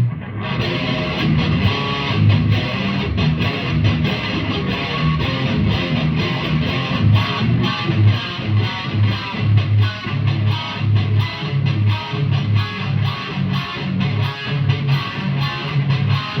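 Distorted electric guitar through a Mesa/Boogie Mark III amplifier, playing a heavy metal riff of fast, repeated low notes.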